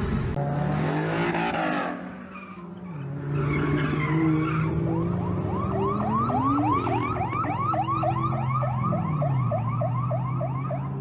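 Car engine running steadily. About halfway through, an electronic warning tone joins it, sweeping up quickly about three times a second.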